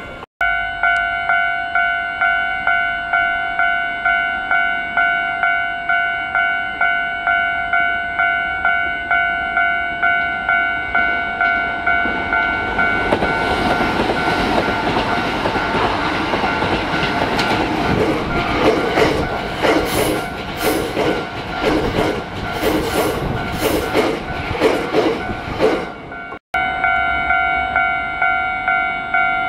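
Japanese level-crossing warning bell ringing in a steady rhythm, a little under twice a second. From about halfway a train passes, its wheels clattering over the rail joints, until a cut near the end, after which the bell rings on.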